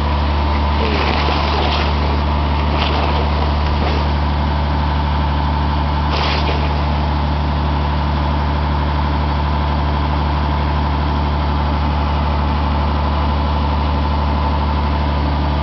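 Stationary engine running steadily on 100% biogas, a constant low hum with no change in speed.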